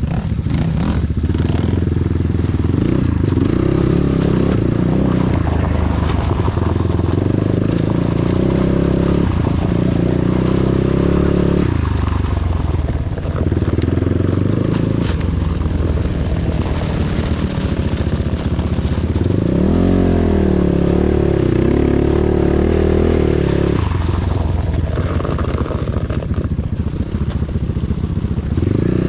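Enduro motorcycle engine under hard throttle, riding on ice. The engine note climbs and drops sharply several times as the rider accelerates and shifts gears.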